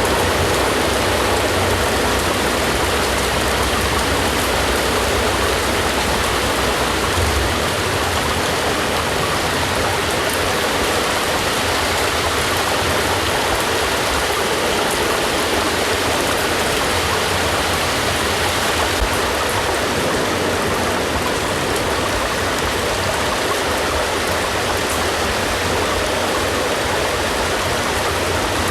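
Steady rain falling, an even hiss with no let-up. A low rumble underneath drops away about seven seconds in.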